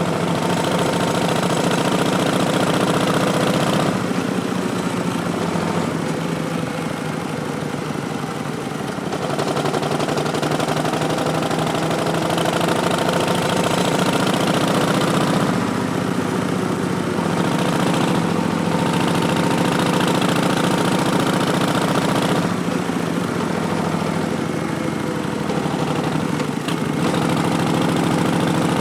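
Harley-Davidson Street Bob's Milwaukee-Eight V-twin running through Vance & Hines Twin Slash slip-on mufflers while riding, the throttle backing off several times and opening up again.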